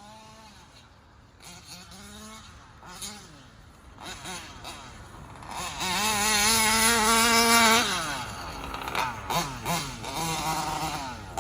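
Two-stroke ALX 85 engine of a Losi 5T RC truck, with its carburettor set rich. It runs unevenly at low speed, is revved up and held high for about two seconds around the middle, then drops back, with a few shorter blips of throttle near the end.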